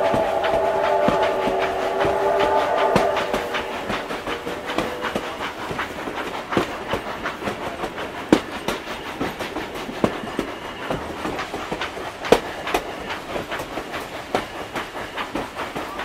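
Train sound effects: a train whistle sounding a chord of several steady notes, which stops about three seconds in, over the clickety-clack of wheels on rail joints. The clickety-clack then carries on alone as a run of sharp ticks.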